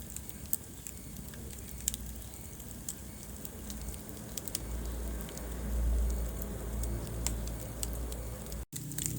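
Wood fire crackling in a fireplace: scattered sharp pops and snaps over a low rumble of flames. The sound cuts out for an instant near the end.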